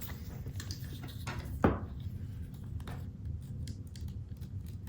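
Paper being handled on a craft table as a card stock strip is positioned, with faint rustles and small clicks. One sharper knock comes about a second and a half in, as something is set down.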